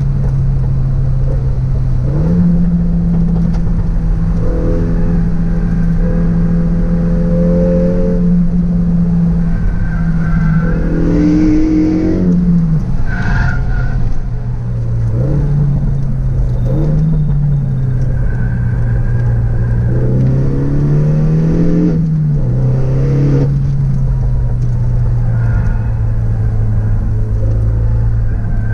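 Renault Megane RS 265's turbocharged 2.0-litre four-cylinder engine being driven hard on a race track, intake and exhaust both heard. The engine note rises and falls several times with throttle and gear changes, holding steady for long stretches in between.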